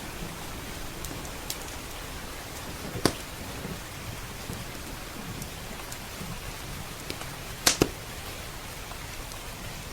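Steady rain, with sharp pops and crackles from a wood fire in a fireplace: one loud pop about three seconds in, a quick pair of pops near the end, and fainter ticks between.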